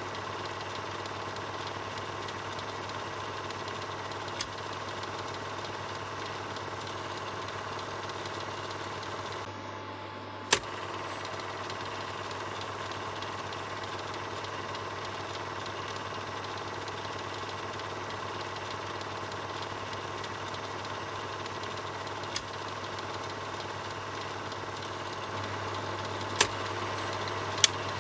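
Film projector running: a steady mechanical clatter with a constant low hum, broken by a few sharp clicks, the loudest about ten seconds in.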